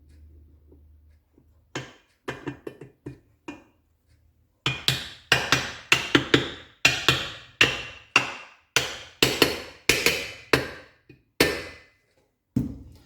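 A hammer striking metal engine parts: a few light taps, then a steady run of harder blows about two a second, each ringing briefly.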